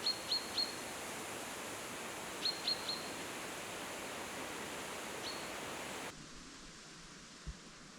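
A small bird chirps in quick groups of up to three short, high, downward-sliding notes over a steady outdoor hiss. About six seconds in, the hiss drops away abruptly, and a single low knock follows near the end.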